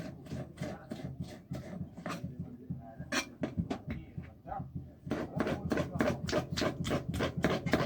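Rapid, repeated sharp knocks, sparser at first, then faster and louder from about five seconds in at roughly three to four a second.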